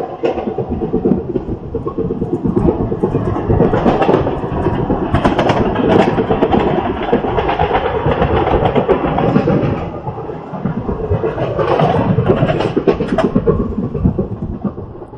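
Trains running side by side at speed: continuous wheel-on-rail rumble and rattle with irregular clacks over the track. It eases briefly about ten seconds in, then builds again.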